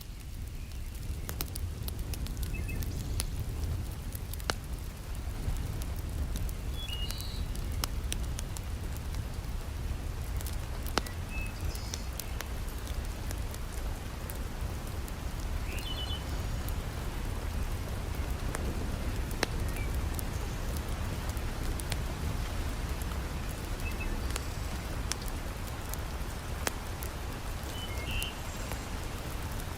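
Heavy rain falling steadily, with a deep low rumble under it, and a wood fire crackling in scattered sharp pops. A few short high chirps sound now and then.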